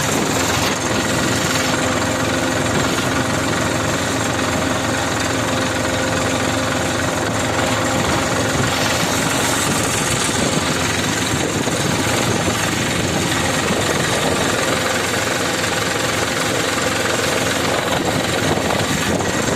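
Tractor engine running steadily, loud and unchanging throughout.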